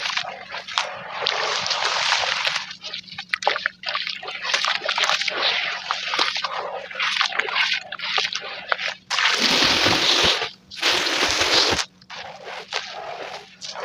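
Gritty charcoal and brick chunks crumbling and crunching into water with wet splashing and slosh, sped up to double speed. There are two louder rushes of noise about nine and eleven seconds in.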